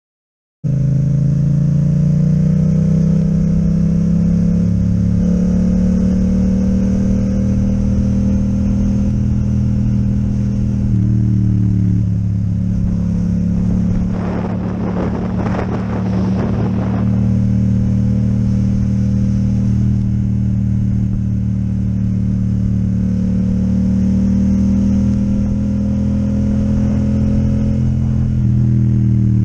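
Yamaha MT-07 parallel-twin engine with an Akrapovic exhaust, heard while riding at fairly steady revs, the engine note stepping in pitch about 5 and 12 seconds in. A rough rattling noise runs over it for about three seconds midway.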